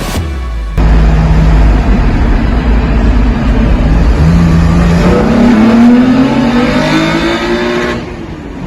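Car engine accelerating, its pitch climbing steadily over several seconds. The sound starts and stops abruptly.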